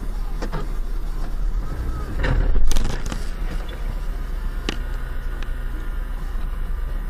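Car driving, heard from a dash cam: a steady low engine and road rumble, broken about two and a half seconds in by one loud sudden bang, with a fainter click a couple of seconds later.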